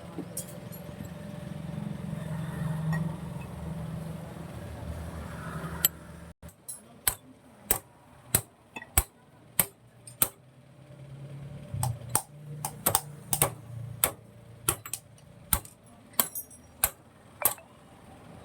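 A low rumbling hum for several seconds cuts off suddenly. It is followed by a long run of sharp, irregular metallic clicks and taps, like hand tools knocking against motorcycle engine parts during repair.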